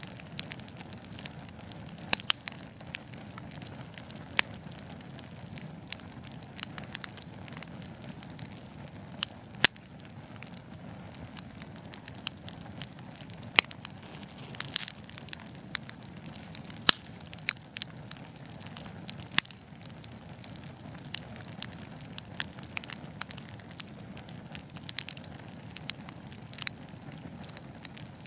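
Wood fire burning in a fireplace: a steady low hiss of flames with irregular crackles and sharp pops from the burning logs, a few pops louder than the rest.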